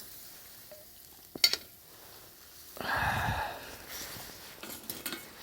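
Pot and utensil being handled while cooking on a campfire: a sharp clack about a second and a half in, a longer louder scrape around three seconds, and a few small clicks near the end.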